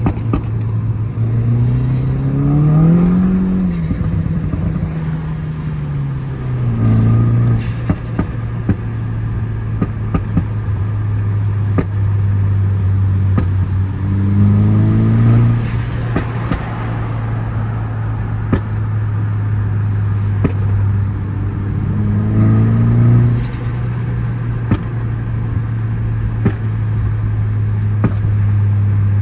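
A car engine running at a steady idle, revved up briefly and let fall back about four times, with scattered sharp ticks.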